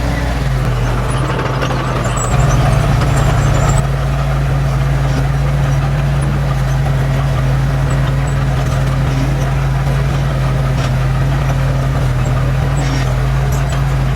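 Heavy diesel engine of earthmoving machinery running steadily. About two and a half seconds in, it runs louder under load for roughly a second and a half, then settles back.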